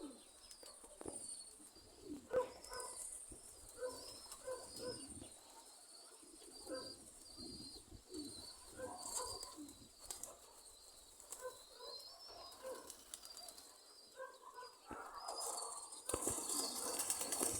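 Domestic pigeons cooing in short repeated phrases, with faint high chirping of small birds behind them. About three seconds before the end, a rush of wind noise comes up.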